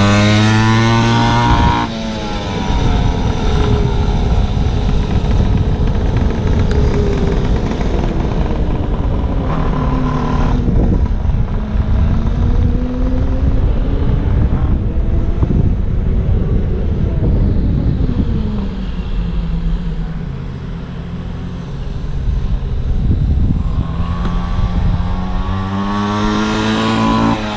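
Pocket bike's small gasoline engine revving as it is ridden, its pitch falling at the start, rising and falling through the middle and climbing again near the end. The choke is set too far on.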